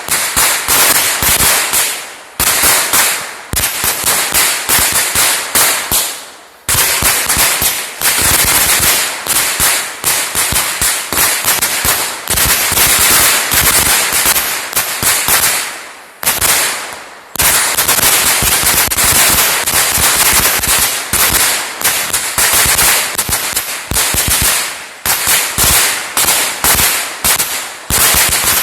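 A long string of firecrackers going off in a rapid, continuous crackle of bangs, with brief lulls about two, six and a half and sixteen seconds in.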